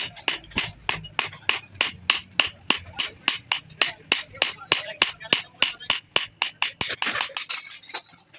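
Hand hammer striking the steel of a spade blade being forged, a steady run of ringing metallic blows, about three to four a second, with a brief scrape near the end.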